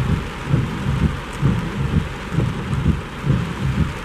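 Steady rain falling on and around the car, with low thumps repeating about twice a second.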